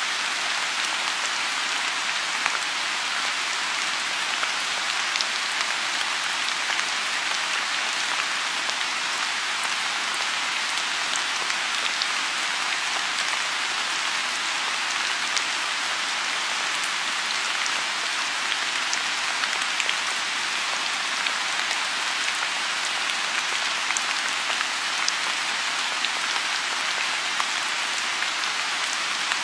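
Steady rain falling on a pond, an even hiss with scattered close drop splashes.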